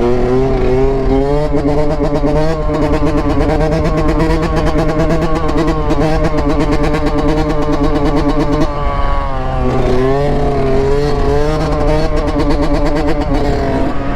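Dirt bike engine running under throttle. Its pitch climbs in the first couple of seconds, holds with a wavering note, dips about nine seconds in, then rises again.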